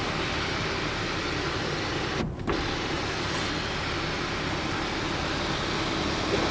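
Electric glass sunroof motor of a Range Rover Sport running steadily as the roof moves, with a brief break a little over two seconds in.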